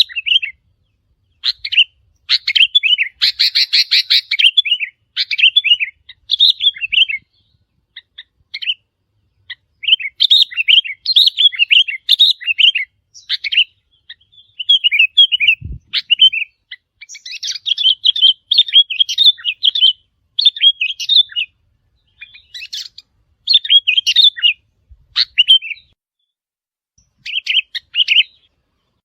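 Sooty-headed bulbuls calling: bouts of short, bubbling chirped phrases, repeated with brief pauses.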